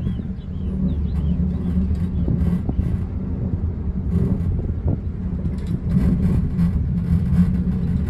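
Steady low mechanical hum with light rattling, a little louder after about six seconds.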